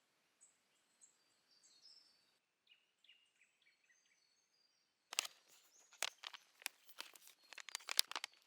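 Small birds chirping in the bush with short high calls. About five seconds in, a run of loud, sharp crinkling clicks starts close to the microphone: something being handled.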